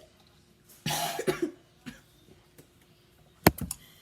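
A person choking and coughing on a sip of water: one harsh cough about a second in, then short sharp coughs near the end.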